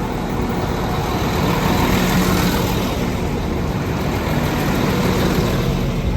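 Northern Class 195 diesel multiple unit running past, its engine and wheel noise rising to a peak about two seconds in and then holding steady.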